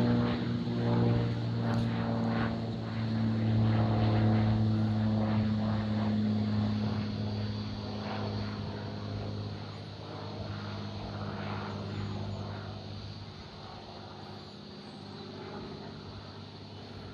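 Propeller aircraft passing, a loud steady drone that gradually fades away over the second half.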